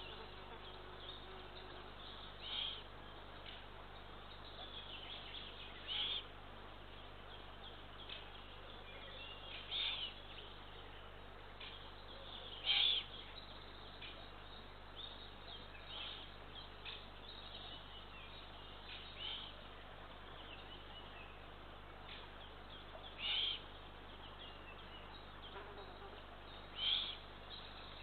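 Eurasian eagle owl chicks giving short hissing begging calls, about eight in all, one every three to four seconds. A fly buzzes briefly at the start.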